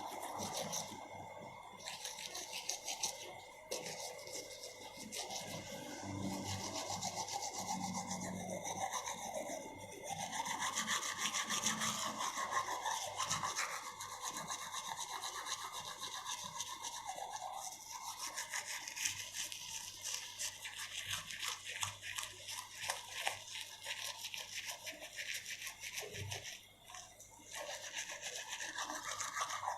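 Teeth being brushed with a manual toothbrush: a rapid, continuous back-and-forth scrubbing with a brief pause near the end.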